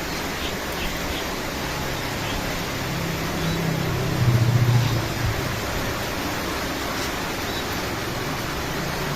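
Steady hiss of rain falling in an aviary. A low hum swells about three seconds in, loudest around four to five seconds, then fades back under the rain.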